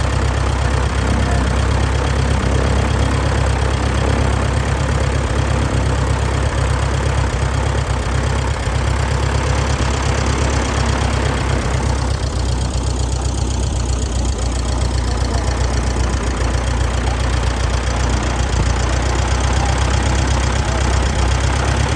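1939 Piper J3 Cub's engine and propeller running steadily, loud and close, with a fast even firing pulse.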